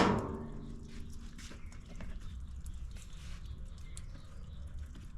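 A single sharp clank right at the start that rings and dies away over about a second, followed by a few faint handling clicks.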